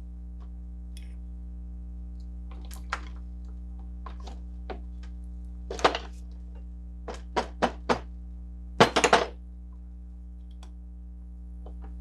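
Irregular knocks, thunks and clicks of hand work on a Crosley water pump's parts and tools, in small clusters, the loudest about halfway through, over a steady low electrical hum.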